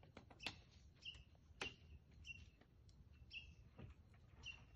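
Near silence with faint bird calls: a short high chirp repeated about once a second. A few brief sharp clicks are also heard.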